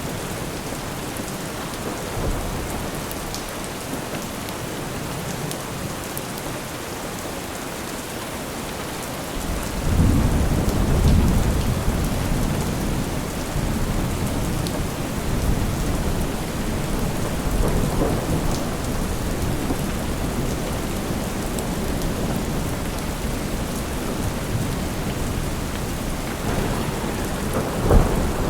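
Steady heavy rain with rolling thunder. A deep rumble swells about ten seconds in and keeps rolling, and a sharper thunderclap comes near the end.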